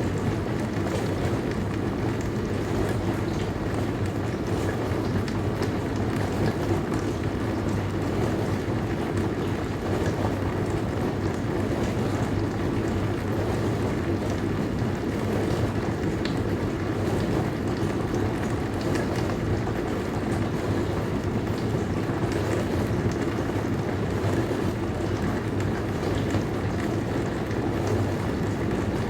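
Dishwasher running mid-cycle: a steady rushing wash noise over a low hum.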